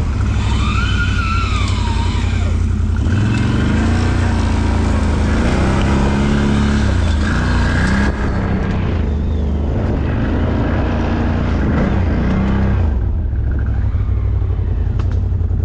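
ATV (quad) engine running loudly and continuously, the revs rising and falling as it is ridden over rough trail.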